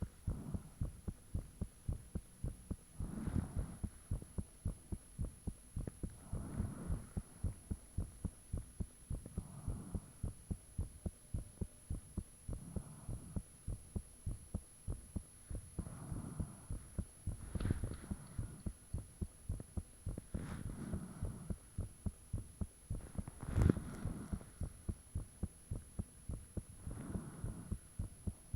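A person's heartbeat recorded up close: a steady run of low thumps, about two a second, with a soft swell every few seconds and one louder thump about 24 seconds in.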